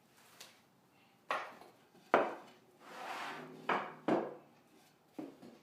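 Pieces of 3/4-inch plywood knocked and set together as the glued birdhouse roof is fitted: about six sharp wooden knocks, the loudest about two seconds in, with a scraping slide between them.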